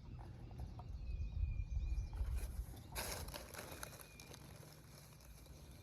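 Quiet outdoor ambience: a low, uneven rumble, a brief rustle about three seconds in, and a faint thin high whistle.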